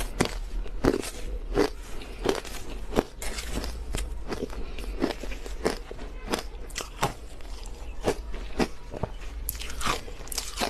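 Crushed ice being bitten and chewed close to the mic, with sharp crunches coming one or two a second.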